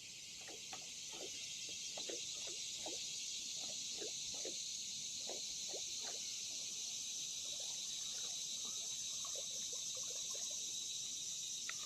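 Steady high-pitched chorus of insects, swelling slightly in the first couple of seconds, with faint short plinks scattered irregularly underneath.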